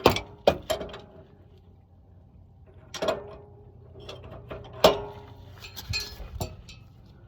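Metal hand tools clanking and clicking against a 1970 Volkswagen Beetle engine's valve gear as it is worked by hand: about seven sharp, irregularly spaced knocks, the loudest about five seconds in.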